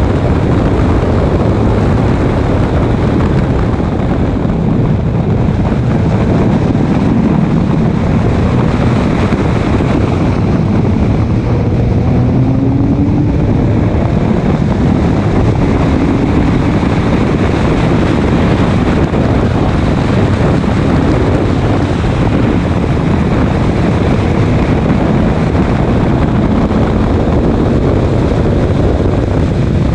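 Race car at speed: loud, steady wind rush over the microphone, with the engine note rising and falling faintly underneath.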